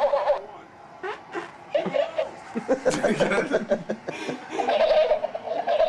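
People laughing and snickering in short, broken bursts, with some voice mixed in.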